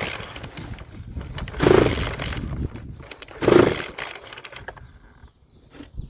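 Recoil pull-starter of a McCulloch GBV325 leaf blower's 25 cc two-stroke engine yanked three times, about two seconds apart, on choke, with the engine turning over but not catching.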